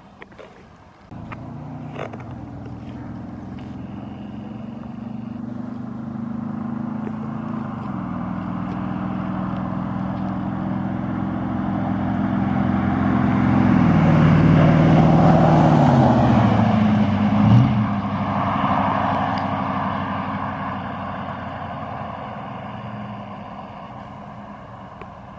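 1996 GMC Sierra pickup's exhaust through a Flowmaster muffler as the truck drives past: the engine note comes in suddenly about a second in, builds steadily louder, drops in pitch as it passes about two-thirds of the way through, then fades away.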